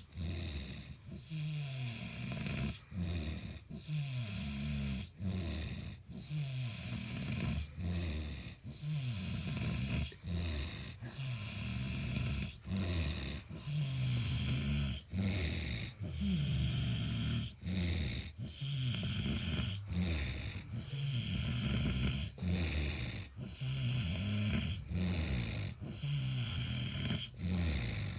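Loud snoring: rough, low pulses with a wavering pitch, repeating every second or two with brief breaks between them.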